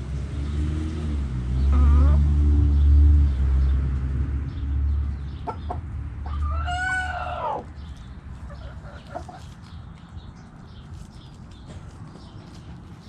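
Backyard chickens clucking, with one long arching call from a bird a little past halfway through. A loud low rumble runs underneath and drops away just after that call.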